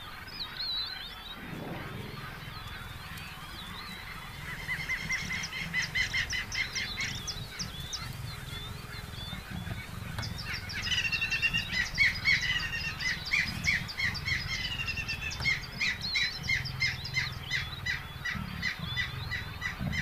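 Birds chirping in rapid repeated notes, starting about five seconds in and growing busier and louder from about ten seconds in, over a low steady rumble.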